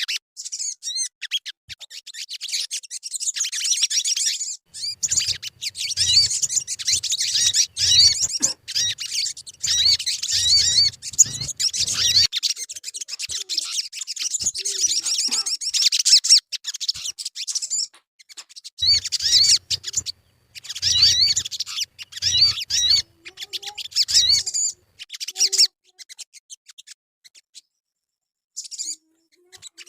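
Sogon bird calling: rapid, high-pitched chirps and trills in long runs, with a break about two-thirds of the way through and a short burst again near the end. Used as a lure call to set other sogon singing.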